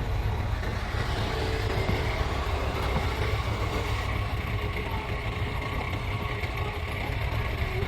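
Heavy diesel earthmoving machinery running steadily: a continuous low engine rumble with a faint steady high whine over it.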